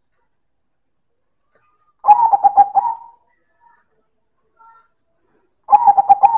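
Silver zebra dove (perkutut) cooing: two phrases of its song, each about a second long, made of quick pulsing notes. One comes about two seconds in and another near the end.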